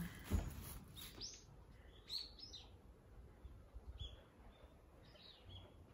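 Faint, scattered chirps of small birds: a few short high calls, a cluster about two seconds in and single ones later, over a quiet background.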